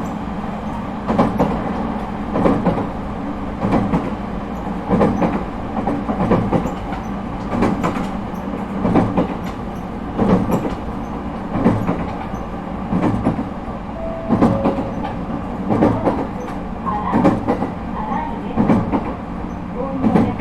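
ET127 series electric train running steadily, its wheels clacking over rail joints at an even pace, about once every 1.3 seconds, over a constant running rumble, heard from inside the car.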